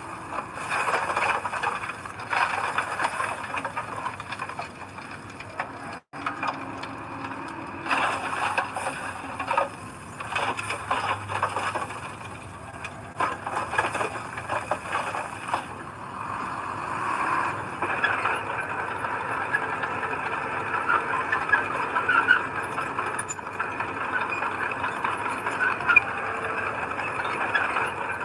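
Heavy diesel earthmoving machinery at work: engine running under load with squealing and rattling metal. It drops out briefly about six seconds in.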